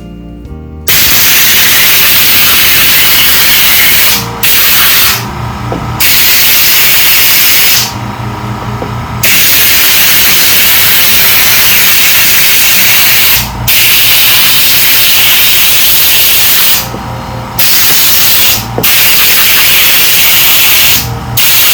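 Compressed-air blow gun hissing loudly in long blasts with several short breaks, blowing grime off a plastic Briggs & Stratton lawnmower carburetor.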